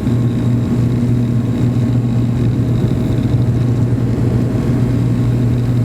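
Vehicle engine running at a steady speed, a loud constant low hum with no change in pitch.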